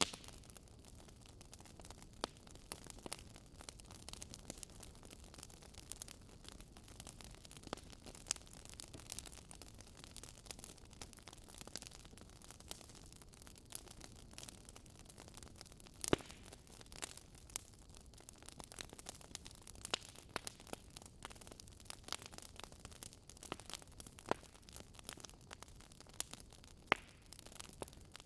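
Wood fire burning in a fireplace: irregular crackles and pops over a soft hiss, with one louder pop about sixteen seconds in.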